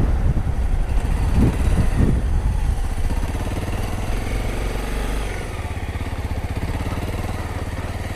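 Honda CRF250 dirt bike's single-cylinder four-stroke engine running at low revs. It is rougher and louder for the first few seconds, then settles to a steadier, quieter run about five seconds in.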